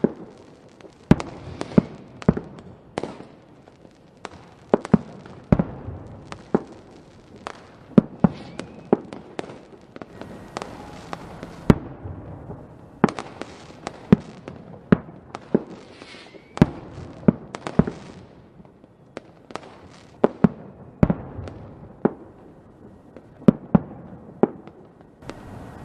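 Fireworks going off: a run of sharp bangs at irregular intervals, roughly one or two a second, some in quick pairs, with crackling between them.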